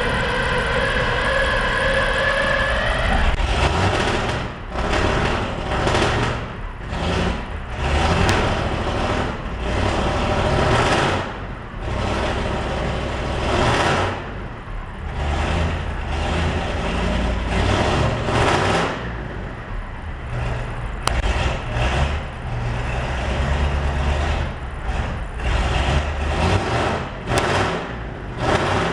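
Cummins V8 diesel engine in an Alvis Stalwart running just after a cold start. It begins with a steady whine for about three seconds. It is then revved in repeated bursts of a second or so, which come quicker and shorter near the end.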